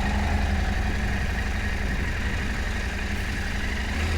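Adventure motorcycle's parallel-twin engine running steadily, a low even hum with no revving.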